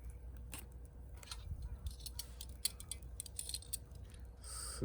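Small wood fire burning in a homemade wood gas stove, with scattered crackles and snaps at uneven intervals. A short breathy hiss comes near the end.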